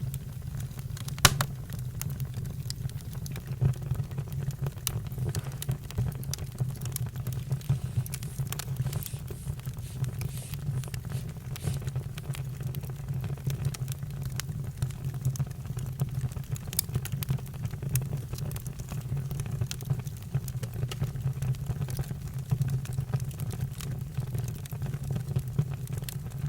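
Campfire crackling: a steady low rumble under scattered sharp pops and snaps, the loudest about a second in.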